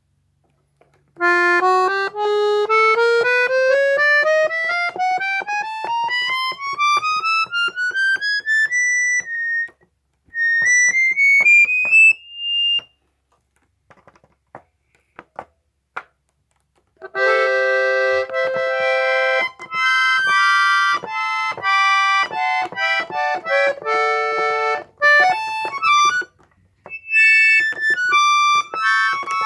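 Accordion playing: a long run of notes climbing steadily for about eight seconds, a short second climbing run, a pause of a few seconds with faint clicks, then a melody with chords from about 17 seconds in.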